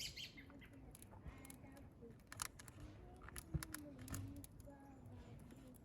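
Faint distant voices with scattered sharp clicks and knocks; the loudest knock comes about three and a half seconds in.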